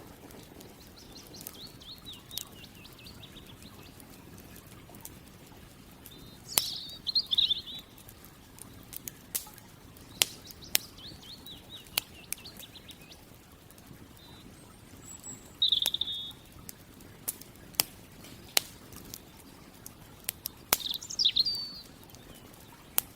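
Campfire crackling with scattered sharp pops over a low steady hiss, while a small bird sings short chirping phrases several times.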